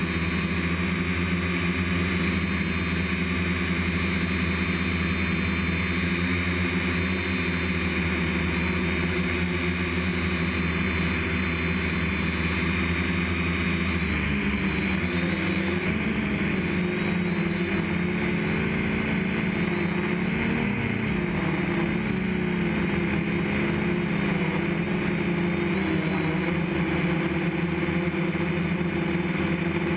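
DJI F550 hexacopter's electric motors and propellers buzzing steadily in flight. About halfway through, the pitch starts wavering up and down as the motor speeds change.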